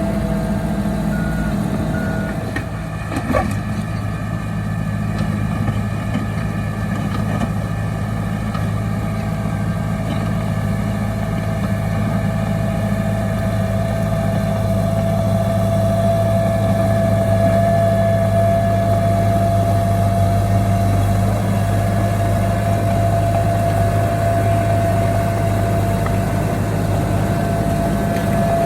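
Heavy diesel engine of earthmoving machinery running steadily under a constant high whine. Two short beeps come about a second in, and a single clank follows at about three seconds.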